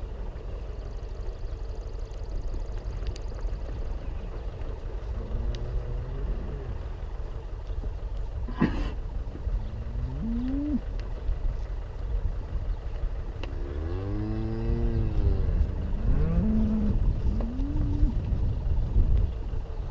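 Tractor engine running steadily as a low rumble, with a few short rising and arching pitched tones in the second half and a sharp click about nine seconds in.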